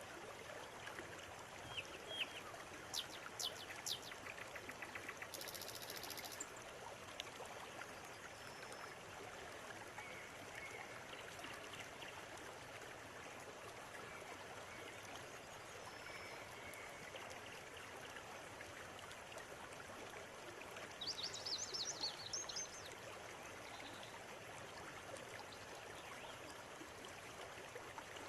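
River water running steadily over stones, with birds calling above it: a few short high chirps in the first few seconds, scattered thin whistles, and a quick burst of rapid chirps about three quarters of the way through.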